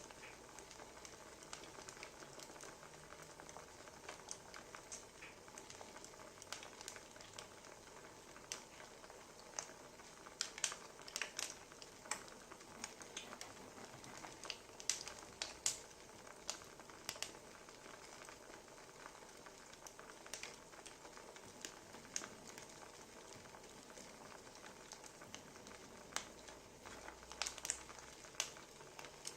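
Wood fire crackling: a soft hiss with irregular sharp pops and snaps, busier and louder about a third of the way in and again near the end.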